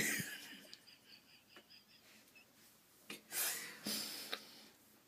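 A person's breathy exhalations, two soft hissing breaths about three seconds in.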